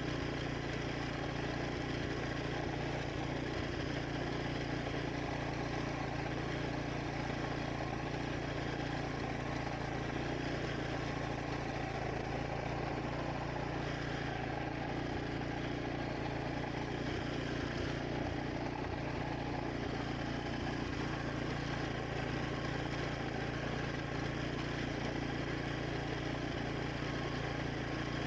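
Wing mower's engine running steadily while mowing grass.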